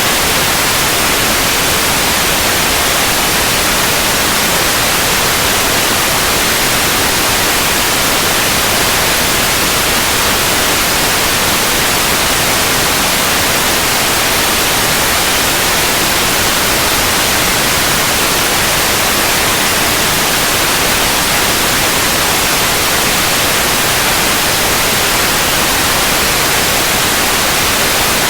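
Continuous white noise: a steady, even hiss across the whole range, brightest in the highs, with no change throughout.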